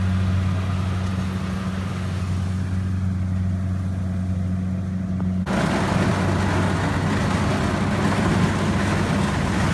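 Rice combine harvester engine running steadily with a low hum. About halfway through, the sound changes abruptly to a louder, noisier run over the same hum.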